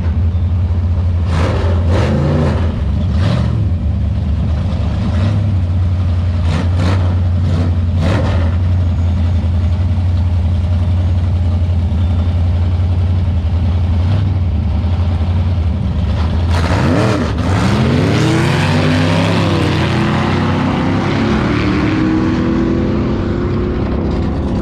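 Drag cars' engines running with a heavy, steady low rumble, broken by several short sharp blips. About 17 seconds in, an engine revs up, its pitch rising and then levelling off near the end.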